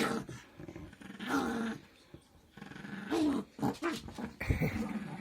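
Chihuahua growling in several short bouts while it keeps hold of a toy that is being asked from it.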